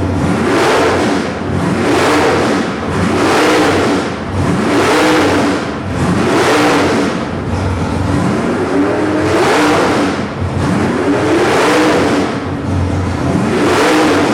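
Nelson Racing Engines 441 cubic-inch small-block Chevy V8 with a 1050 CFM Dominator carburetor, blipped repeatedly from idle: about eight quick revs, each rising and falling sharply, one every second and a half or so. Loud throughout.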